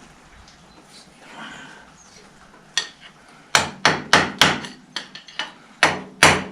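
Hammer striking a metal part on the tractor: a single blow about three seconds in, then a quick series of blows at about three a second. The blows sound solid, which is taken as a sign that the part is seated properly.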